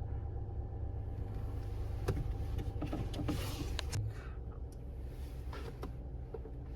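Car running, a steady low rumble of engine and road noise, with a brief whooshing swell about three seconds in and a few faint clicks.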